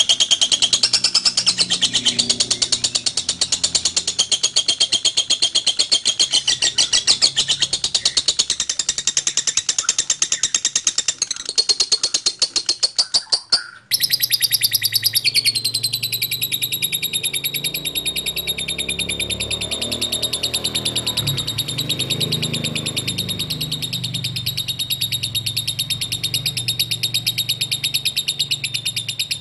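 Lovebird "ngekek": a long, unbroken string of rapid, shrill chirps, many per second, with a sudden break about fourteen seconds in before the chattering carries on just as fast.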